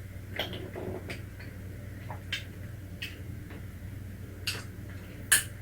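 Faint, scattered clicks and mouth noises of someone eating ice cream with popping candy, about six in all, over a low steady hum.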